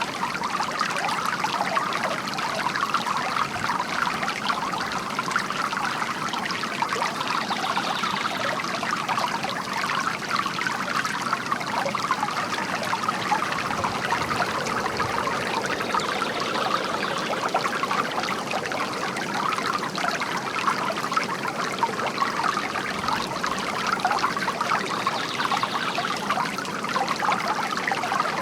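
Bamboo garden fountain with water trickling and pouring steadily into its basin.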